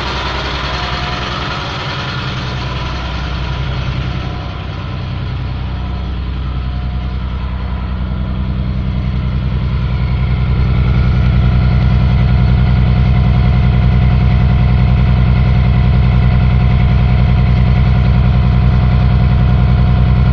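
Caterpillar diesel engine of a Freightliner school bus idling steadily, a low, even running sound that grows louder about halfway through.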